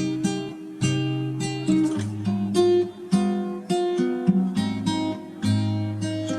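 Background music: acoustic guitar playing chords, each struck about every half second.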